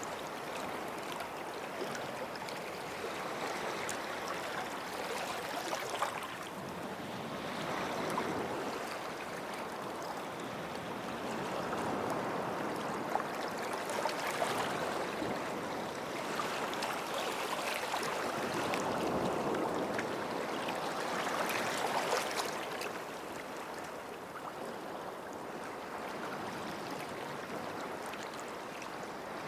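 Small waves lapping and washing on a sandy beach, swelling and receding every several seconds with a light fizzing crackle.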